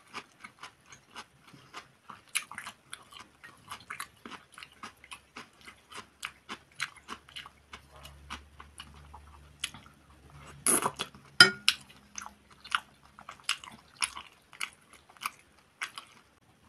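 Close-miked eating sounds of a creamy sauce being eaten off a fork: wet lip smacks and chewing clicks, about four a second, with a louder cluster about eleven seconds in. The smacking is played up mukbang-style.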